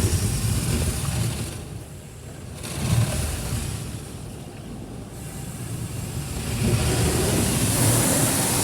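Ryko Radius HT touchless car wash spraying the car with high-pressure water, heard from inside the cabin: a rumbling hiss of water on the body and glass. It eases off about two seconds in and again around four to five seconds, then builds louder near the end as the spray comes closer.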